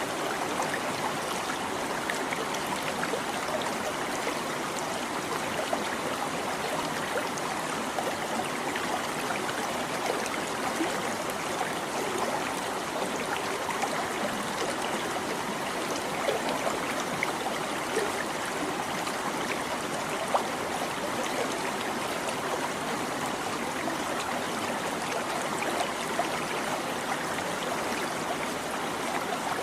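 Babbling stream: water running steadily over stones, a continuous splashing and trickling with small gurgles.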